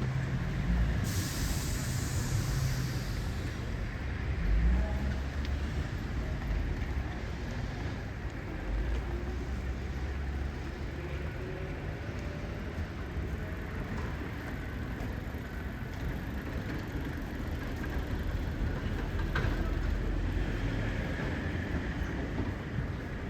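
Tobu 8000 series electric train running through the station with a steady low rumble, with a burst of compressed-air hiss about a second in, and a faint changing motor whine.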